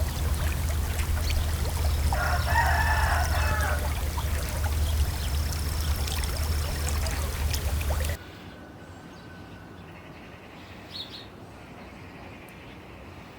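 A rooster crowing once, about two seconds in, over a loud steady rushing noise with a low rumble. The rushing noise cuts off suddenly about eight seconds in, leaving a much quieter outdoor background.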